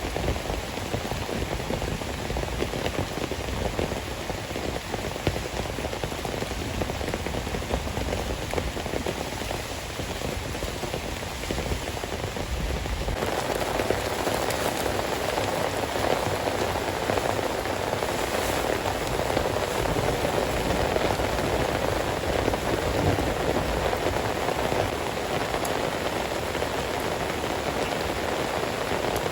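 Heavy rain falling steadily as a dense hiss. About thirteen seconds in it changes character, becoming fuller and slightly louder.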